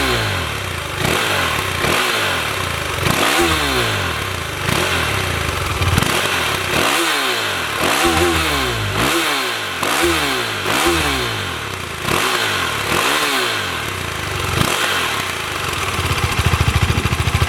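KTM 390 Adventure's single-cylinder engine revved in a series of quick throttle blips, each rising and falling in pitch, about one a second. It settles back to a steady idle near the end.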